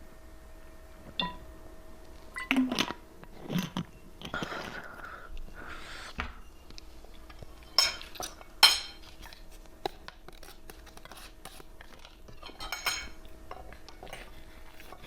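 Close-miked eating: sharp clinks and taps of cutlery against a dish, the loudest a little under nine seconds in, with stretches of chewing in between.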